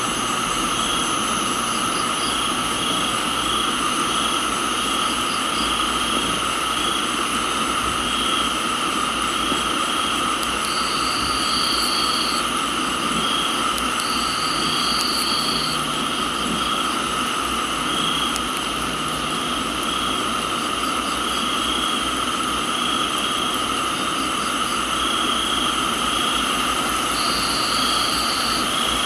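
Chorus of crickets and other insects in a tropical garden: several steady shrill drones layered with a chirping that pulses about twice a second, and a short higher trill that comes in every few seconds, over a steady hiss of rain.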